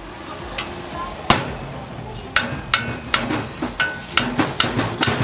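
Hammer striking metal during swingarm fabrication: one blow about a second in, then a quick run of blows at roughly three or four a second, several with a short metallic ring.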